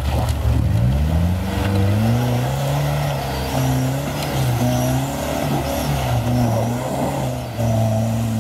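Off-road 4x4's engine revving under load as it climbs a muddy bank. The pitch climbs about a second in, then rises and falls with the throttle, dipping briefly near the end.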